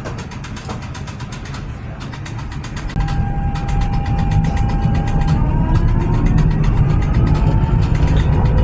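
Electric tram pulling away: a low rumble grows about three seconds in, then a steady motor whine turns into a slowly rising whine as the tram gathers speed.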